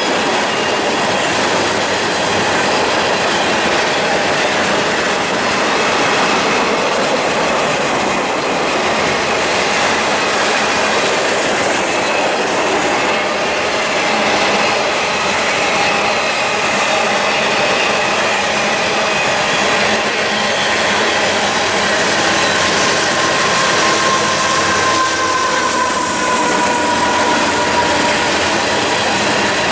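Long CSX freight train's cars rolling past, a steady clattering run of wheels over rail joints with faint, drifting wheel squeal.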